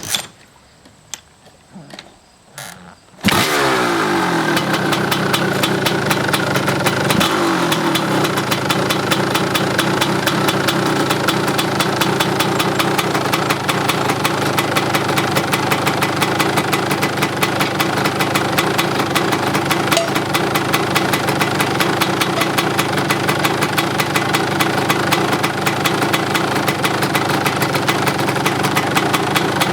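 1990 KTM 300 EXC two-stroke dirt bike engine cold-started: a few mechanical clicks, then the engine catches about three seconds in and runs steadily with a rapid, even firing beat. The owner says it has a few exhaust leaks.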